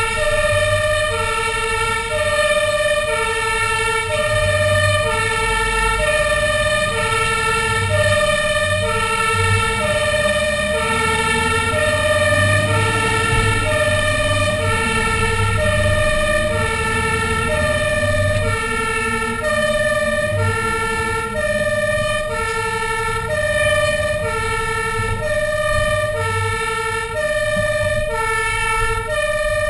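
Fire engine's two-tone siren sounding continuously, alternating evenly between a low and a high note about once a second, over the low rumble of the truck's engine.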